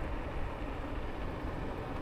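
Steady rushing and low rumble of riding along on an e-bike: wind buffeting the camera microphone, with tyre noise on the path.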